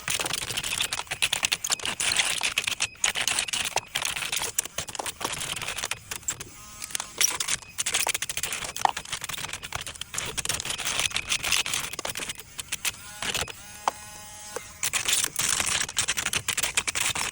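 Miniature sanding head on a small power tool grinding against a wooden root, a scratchy clatter that comes in uneven bursts. A pitched motor whine shows through briefly near the end.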